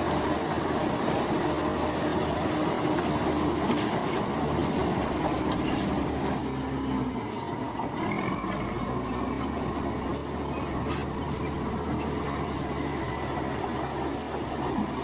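Komatsu crawler bulldozer working: diesel engine running steadily under the squeal and clank of its steel tracks. The engine note drops a little about seven seconds in.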